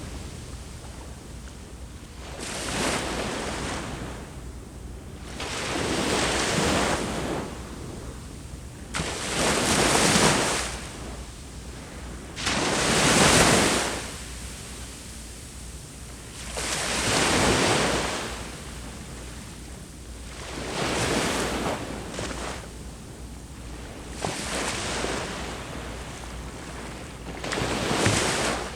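Sea waves breaking and washing up the shore in regular surges, about eight of them, one every three to four seconds. Each surge swells and fades, over a steady low rumble.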